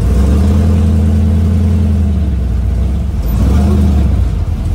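A drag-racing car's engine running loudly at steady revs for about two and a half seconds. It eases off, then is held again for about a second before fading near the end.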